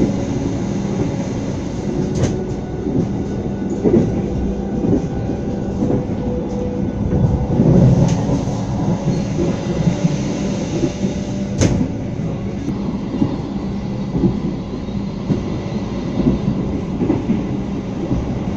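Passenger coach of the Sancaka express train running at speed, heard from inside: a steady rumble of wheels on rail with irregular clicks and knocks from rail joints, one sharper knock about two-thirds of the way through.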